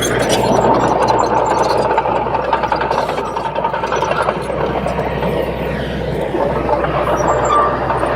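Komatsu D21P small crawler bulldozer at work: its diesel engine hums steadily under a dense clattering noise of tracks and pushed soil. A thin squealing tone rides over it for the first few seconds.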